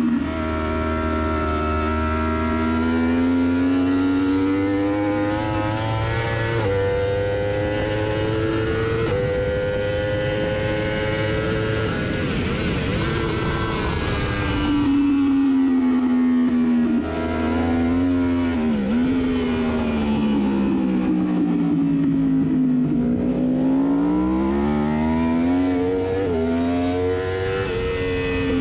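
Yamaha R1 inline-four racing engine at high revs, heard onboard. Its pitch climbs through upshifts in the first half, drops with sharp dips on downshifts between about 15 and 20 seconds in, then climbs again hard out of the corner.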